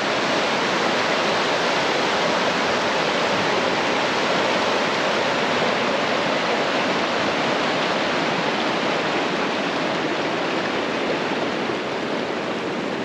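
River water rushing, a loud, even rush of flowing water that eases slightly near the end.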